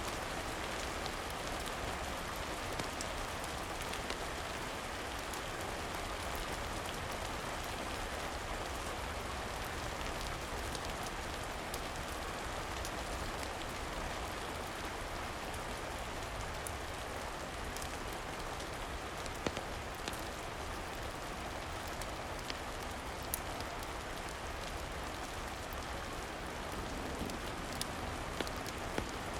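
Steady rain falling, an even hiss with occasional sharp clicks scattered through it.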